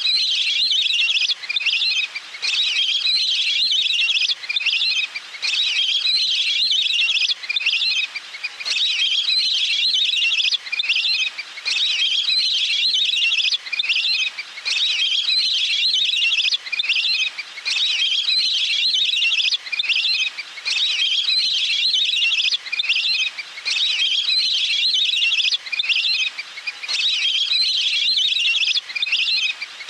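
Recorded wild duck (นกเป็ดน้ำ) calls used as a hunting lure: dense, high twittering calls in runs of one to three seconds with short breaks between them, repeating over and over.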